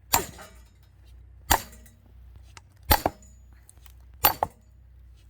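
Firewood being split by sharp blows on an upright log, four strikes at an even pace about one and a half seconds apart, the last followed at once by a second knock.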